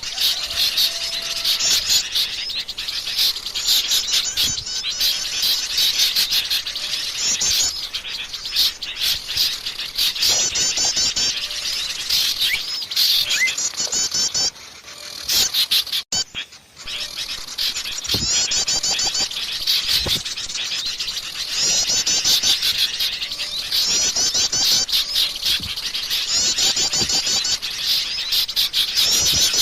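Small songbirds chattering and chirping in a dense chorus, with rapid trilled phrases repeating every second or two, played as a bird-trapping lure recording. The chorus drops away briefly about halfway through, then resumes.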